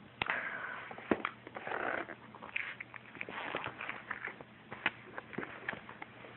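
Packaging being handled: irregular rustling and crinkling with many light clicks and taps.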